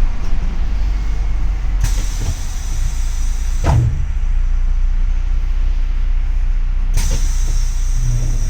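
Inside a double-decker city bus: the engine's steady low rumble, with two sudden bursts of compressed-air hiss, each lasting about two seconds. The first ends in a sharp knock.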